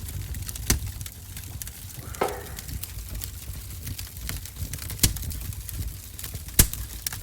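Wood fire crackling in a wood-burning stove over a low rumble, with three sharp pops about a second in, near five seconds and near the end. A brief short sound, not a pop, comes about two seconds in.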